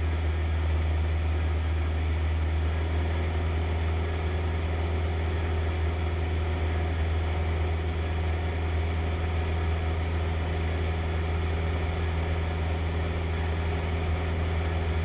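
Cessna 152's four-cylinder piston engine and propeller droning steadily in flight, heard inside the cockpit.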